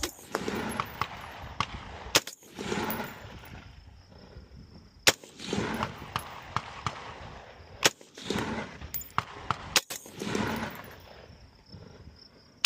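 About six single gunshots at uneven intervals of one to three seconds, each a sharp crack followed by a rolling echo that fades over a second or so.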